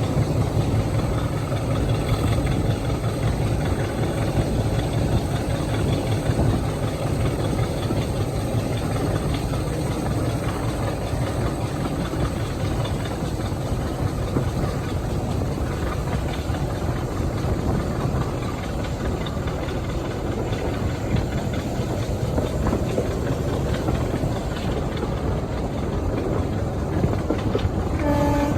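Diesel locomotive engine running steadily, with a brief pitched tone near the end.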